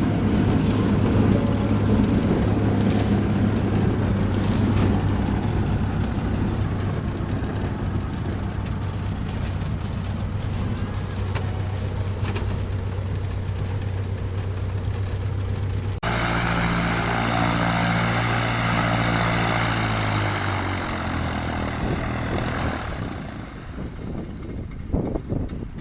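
Cessna 150's four-cylinder piston engine and propeller droning steadily. About two-thirds of the way in, the sound cuts abruptly to a different engine sound, which fades out near the end.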